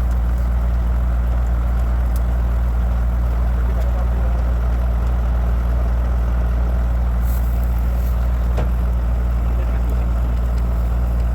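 Tractor's diesel engine running steadily at a constant speed, with a deep, even hum.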